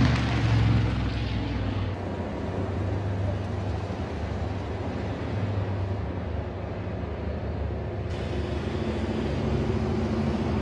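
Drag cars' engines running on the dragstrip, heard from the pits. A '55 Gasser's engine is loud and fades over the first second or two, then a steady distant engine rumble follows, and another engine grows louder near the end.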